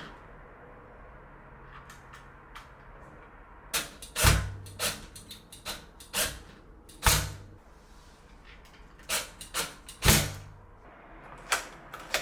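Aqara U400 smart lock being worked on a door: three loud clicks, each followed by a brief motor run, amid lighter clicks and knocks.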